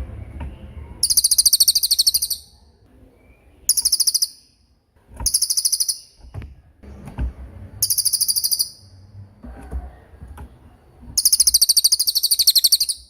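A small songbird giving five very high, fast rattling trills, each lasting about half a second to a second and a half, with short pauses between them.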